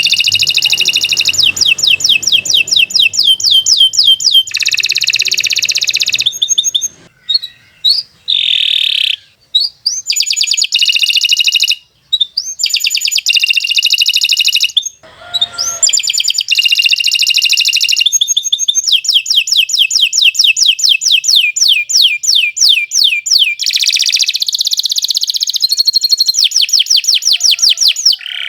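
Domestic canary singing a long, continuous song of fast high trills and rapid repeated notes, with a few short pauses partway through.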